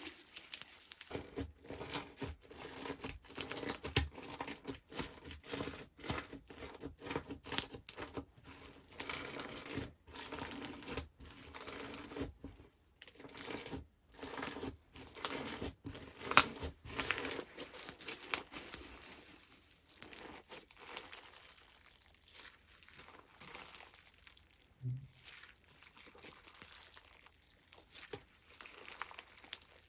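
Slime being worked by hand, pressed, stretched and folded, giving a dense run of small crackling clicks and pops that thin out and grow quieter about two-thirds of the way through.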